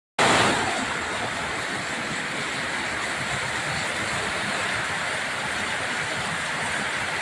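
Heavy rain pouring down in a torrential downpour, a steady, even hiss.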